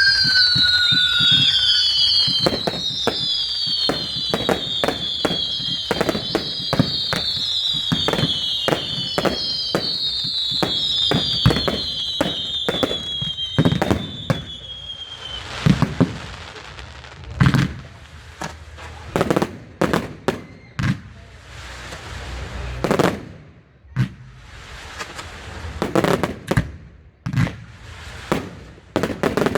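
Fireworks going off. Over the first half several shrill whistles fall in pitch, overlapping, amid rapid bangs and crackle. After that come separate loud bangs at irregular intervals.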